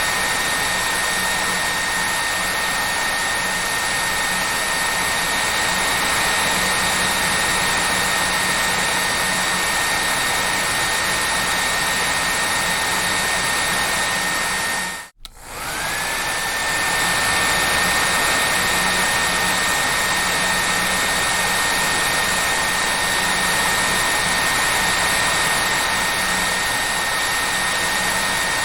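Hair dryer blowing steadily with a high whine over the rush of air. About halfway through the sound drops out for a moment, then comes back, its whine climbing back up to pitch.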